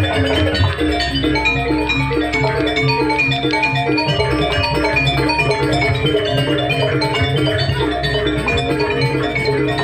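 Live jaranan Banyuwangi gamelan music: metal mallet instruments play a fast, repeating melody over steady drumming.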